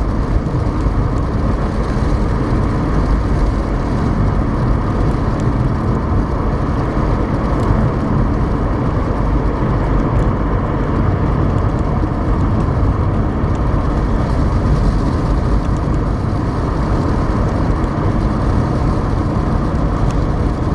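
Steady road and engine noise heard from inside a moving car, a dense low rumble of tyres and motor that holds level throughout.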